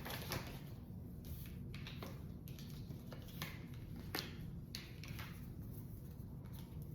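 Faint, irregular taps and clicks of tarot cards being handled and shuffled over a low steady room hum.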